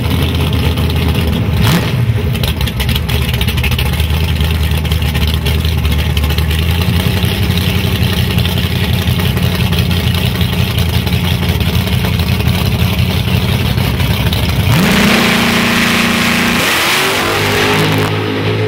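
Fox-body Ford Mustang drag car's engine running loudly at the starting line, with a quick blip about two seconds in. About fifteen seconds in it revs up and holds high revs, then near the end it launches, the pitch climbing as the car pulls away.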